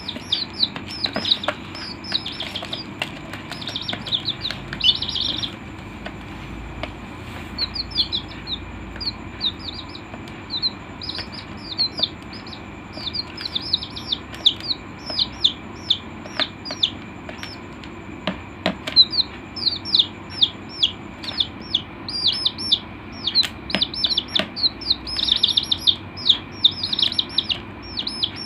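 A flock of young chicks peeping continuously: many short, high calls that fall in pitch, several a second, over a faint steady hum.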